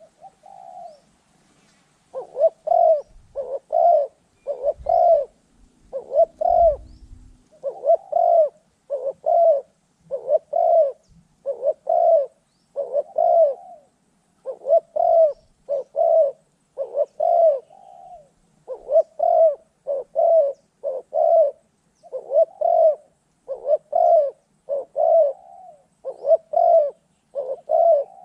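Spotted dove cooing over and over, short low coos about once a second with brief pauses, as used in decoy trapping. A low rumble or handling thump comes in briefly about five to seven seconds in.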